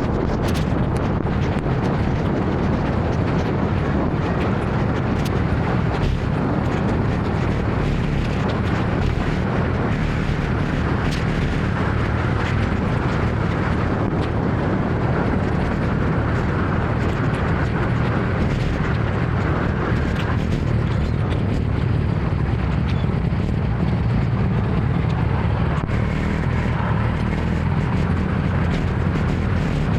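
Steady road noise from riding a motor scooter through city traffic, with a heavy low rumble from wind on the microphone.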